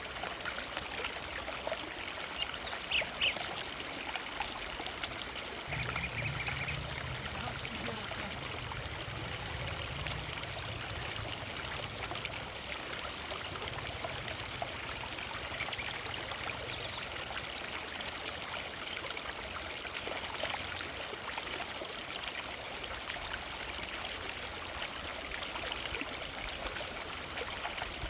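Forest river flowing over rocks, a steady rushing and splashing with small trickles. A low rumble joins the water sound from about six seconds in and fades by about the middle.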